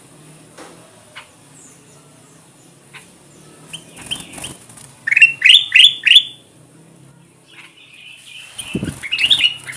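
Kutilang emas bulbul singing: after a few quiet seconds, a short call, then a loud run of four quick rising whistled notes about five seconds in, and another burst of notes near the end. A dull low thump comes just before the last burst.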